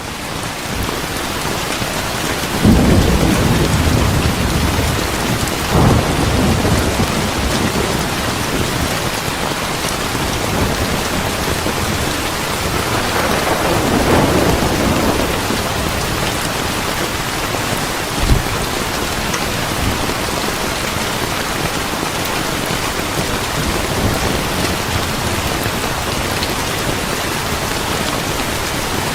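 Steady heavy rain with rolling thunder: a low rumble builds about three seconds in, another swells around the middle, and a short low thump comes a few seconds later.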